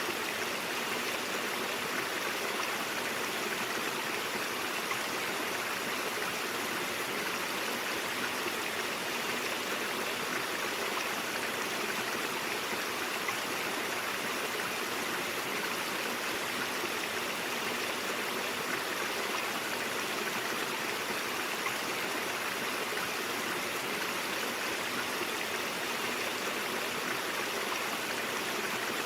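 Shallow stream flowing over rocks, a steady, even rush of water with no changes.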